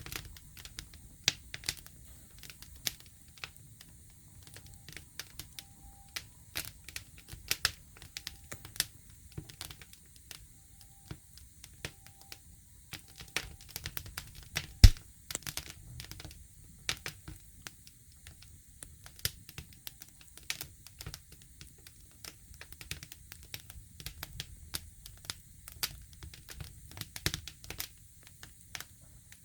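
Campfire crackling: irregular sharp pops and snaps from burning wood over a low rumble, with one loud pop about halfway through.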